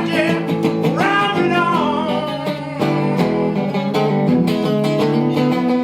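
Blues guitar played live as an instrumental passage: picked notes and chords, with some notes bending in pitch.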